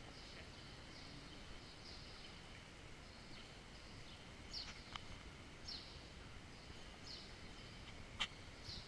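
Faint birds chirping, a short chirp repeated roughly every second, over a low steady hiss. A few sharp clicks sound about halfway through and near the end.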